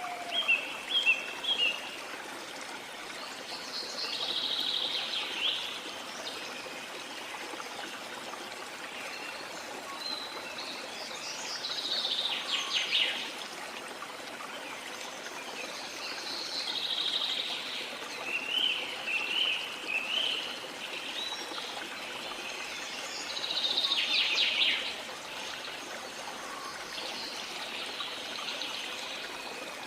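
Steady rushing of a flowing forest river, with birds calling and chirping in short bursts every few seconds over it.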